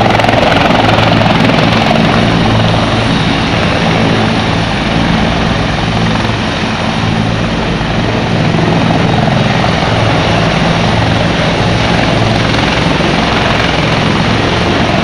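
Helicopter running close by, its rotor and turbine engine loud and steady.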